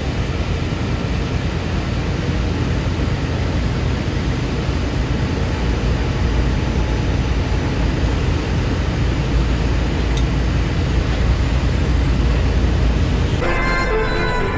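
Steady drone of a semi-truck driving at highway speed, heard from inside the cab: engine and road noise with a heavy low rumble. Music comes back in near the end.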